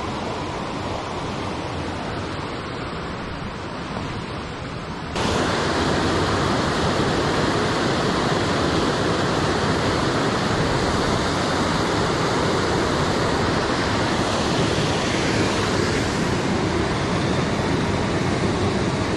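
Steady rushing noise, becoming suddenly louder and brighter at a cut about five seconds in.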